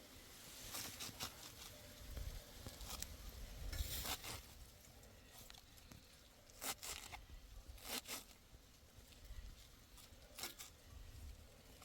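Intermittent rustling and scraping from materials being handled: short, sharp scrapes and crinkles every second or two, with a low rumble from about two to four seconds in.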